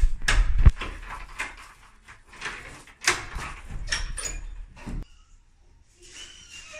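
A door being opened and handled: a heavy thump at the start, then a run of clicks, knocks and rustling that stops about five seconds in.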